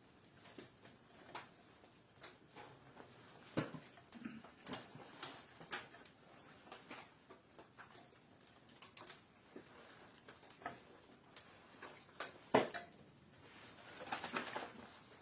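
Irregular light clicks and knocks, the sharpest about three and a half seconds in and again about twelve and a half seconds in, followed by a brief hissing swell just before the end.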